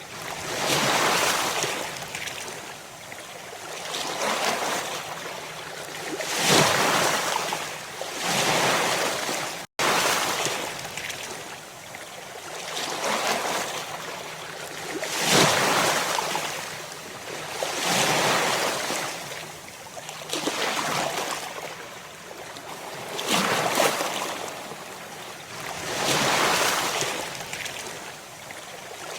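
Ocean waves breaking on the shore, one swell of surf after another about every two to three seconds, each rising and falling away. The sound cuts out for an instant about ten seconds in.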